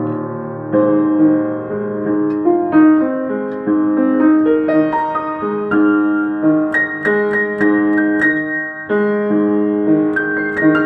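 Solo piano improvisation: held chords under a repeated middle note, with a melody of single notes moving above it, growing busier and reaching higher notes about halfway through.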